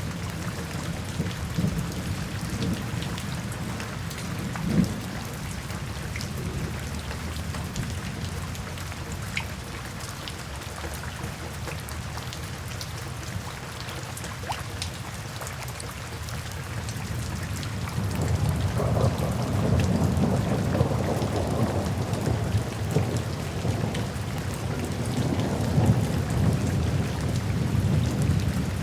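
Steady rain falling, with a low rumble of thunder swelling in about two-thirds of the way through and rolling on. A single brief thump sounds about five seconds in.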